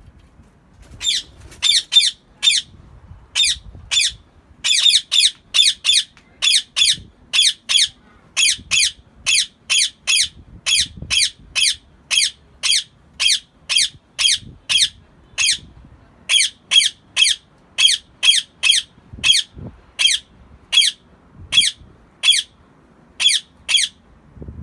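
Rose-ringed (Indian ring-necked) parakeet giving a long run of short, shrill squawks, about two a second, with a few brief pauses.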